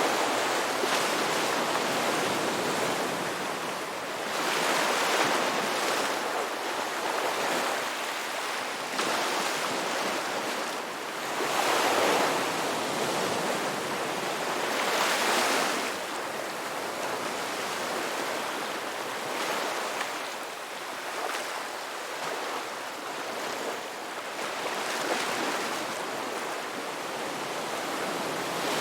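Ocean waves breaking and washing in: a steady hiss of surf that swells and fades every few seconds, with several louder surges.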